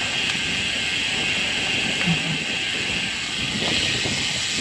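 Steady wind rush over the microphone and hiss of a road bike rolling along at riding speed.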